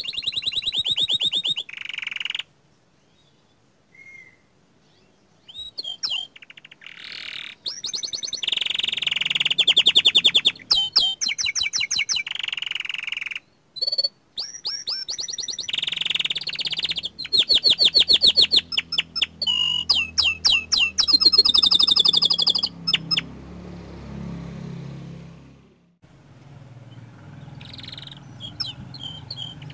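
Young canary singing in long, rapid trilled phrases broken by short pauses, with a near-silent gap a few seconds in. A low hum runs underneath through the second half.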